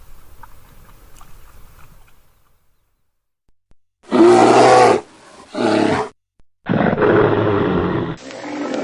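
Grizzly bear roaring: a few faint crunching clicks, a short silence, then loud deep roars about four seconds in. Two short roars are followed by a longer one, and another starts near the end.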